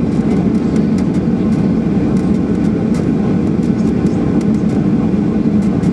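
Steady cabin rumble inside a Boeing 737-800 from its CFM56-7B engines and the airflow, with faint light ticks and rattles over it.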